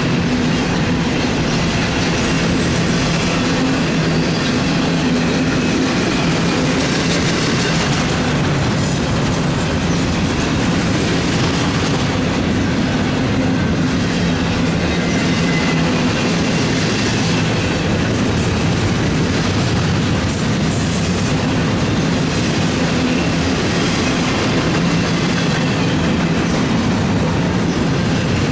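Double-stack intermodal freight cars rolling past, the steel wheels running steadily and loudly over the rails.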